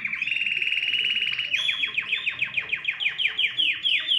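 Domestic canary singing: a fast, even trill, then from about a second and a half in a run of quick downward-sliding notes, about five a second.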